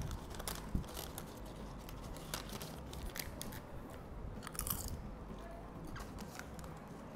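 A person eating: quiet chewing with scattered small clicks and a brief rustle.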